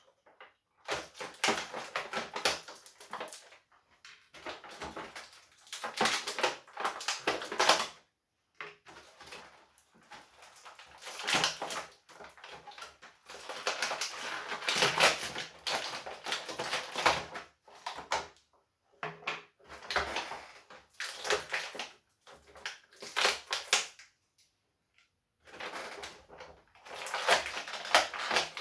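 Stiff plastic blister packaging crackling and crinkling as action figures are worked out of it by hand, in bursts with short pauses.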